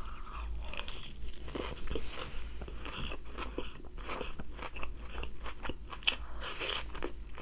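A person biting into and chewing food, with irregular crisp crunching throughout.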